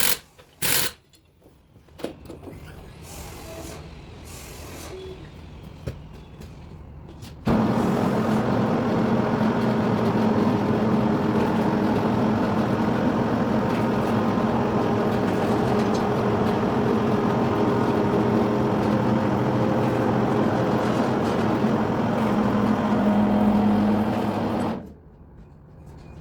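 BMW 520d's four-cylinder diesel car running under test, a steady loud engine and running noise that starts suddenly about seven seconds in and cuts off near the end, with no squeak from the front suspension: the squeaking lower-arm ball joint has been replaced. A short sharp rattling burst at the very start.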